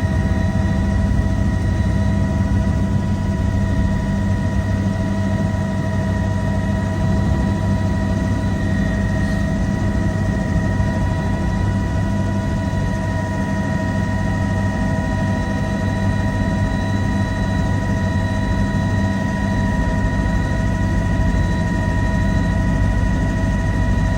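Helicopter engine and rotor drone heard from inside the cabin in flight. It is a steady low rumble with a few constant high tones over it, unchanging throughout.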